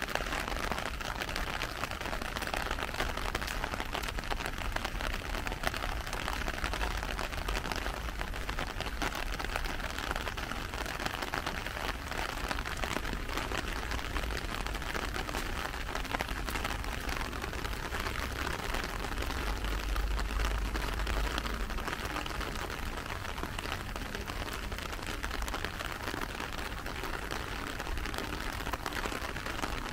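Steady rain falling, a dense spatter of many small drops. A low rumble underneath grows briefly louder about twenty seconds in.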